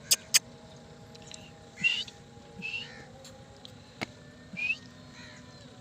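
Two sharp clicks, then three short high chirps from a black francolin chick, each a quick upward slide, with a single click between the last two.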